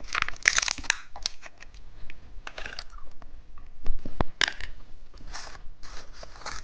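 Close-miked crackling and sharp clicks from a peach gummy candy and its plastic wrapper being handled and opened, with irregular snaps scattered through.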